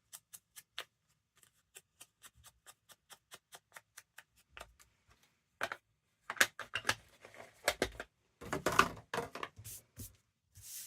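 Ink dabbed onto paper with an ink blending tool, giving light, even taps, about four a second. Louder rustling and handling of paper follows from about halfway.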